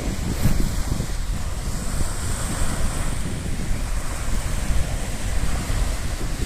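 Sea waves washing on the shore, with a hissing surge about two seconds in, under a heavy rumble of wind on the microphone.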